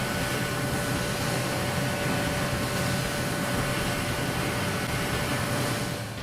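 5-axis CNC machining centre running while high-speed milling aluminium: a steady noise with a thin, high spindle whine held at a constant pitch, dropping away near the end.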